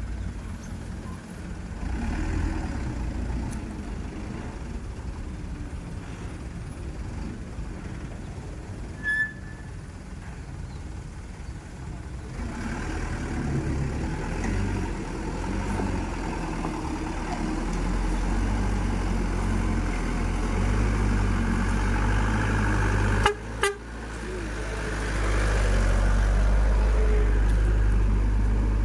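Hino 500 dump truck's diesel engine running, its rumble building and growing louder toward the end. A brief high beep about nine seconds in, and two sharp knocks in quick succession about 23 seconds in.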